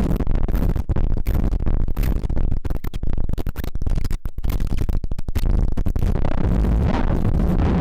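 Soma Lyra-8 analog synthesizer making harsh drone noise. For most of the stretch it is chopped into rapid, stuttering fragments with brief gaps, then it settles back into a dense, steady low drone near the end.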